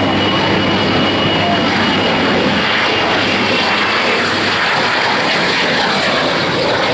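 Sea Harrier FA2's Rolls-Royce Pegasus turbofan running: steady, loud jet noise, with a thin high whine that fades away over the first few seconds.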